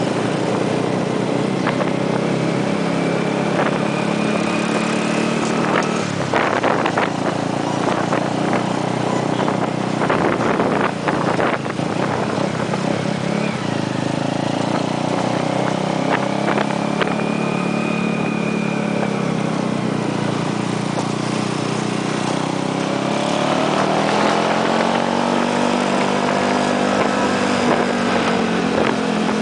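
Motorcycle engine running while under way, its pitch rising and falling with the throttle and climbing again near the end. Rattles and knocks come through for several seconds partway through.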